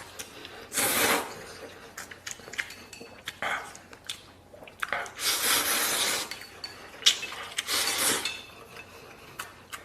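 Tableware clinking and scraping as food is dished out: many short clicks of utensils against a bowl and small plate. There are three longer stretches of rushing noise, about a second in, around five to six seconds, and near eight seconds.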